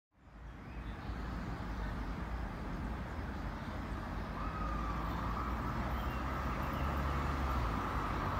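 Distant electric train approaching: a low rumble and hiss that fade in and slowly grow louder, with a high steady whine joining about halfway through and strengthening.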